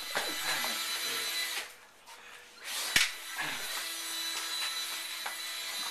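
Cordless electric drill running unloaded in two long bursts, with a short pause about two seconds in.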